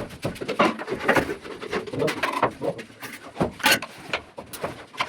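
Ceiling plastering work: a run of irregular knocks and scrapes, several a second, of a trowel working mortar.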